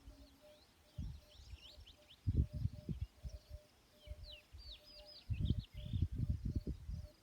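Small birds chirping and twittering in quick, high rising and falling notes. Low rumbling comes in irregular bursts, loudest near the middle and toward the end, and a faint note pulses about three times a second underneath.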